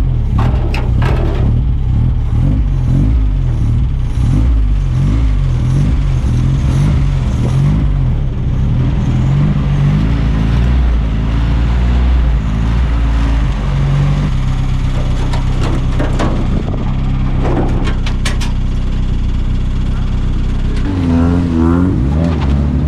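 1300cc stock car engine running loudly, its pitch rising and falling as it is revved and eased off.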